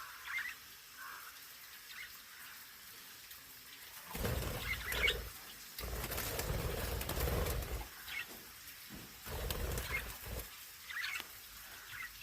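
Budgies chirping in short, scattered high calls. For several seconds in the middle, a louder low rumbling noise covers them.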